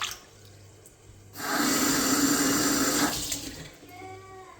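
Water from a tap running hard for about two seconds, then shut off, as a sink or tub is filled.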